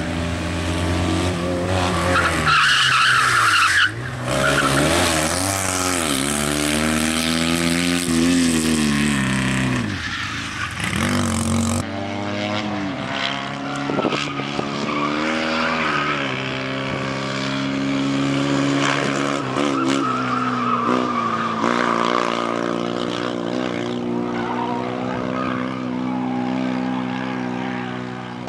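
Fiat 126p's air-cooled two-cylinder engine revving hard, its pitch rising and falling again and again as the car accelerates and brakes around a track, with tyre squeal from cornering.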